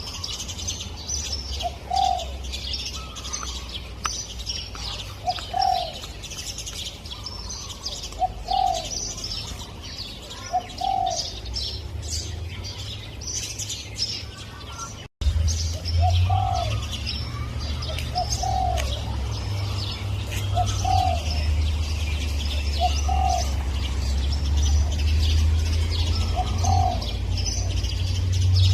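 Spotted dove cooing, a short low coo repeated every two to three seconds, over the steady high chirping of small birds and a low hum. The sound drops out for an instant about halfway through.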